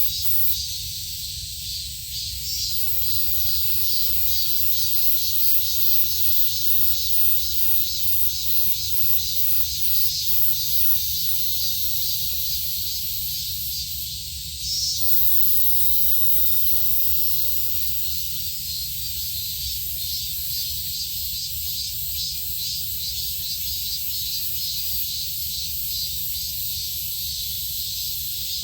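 Steady, high-pitched insect chorus with a fast pulsing, over a steady low rumble; it dips briefly about halfway through.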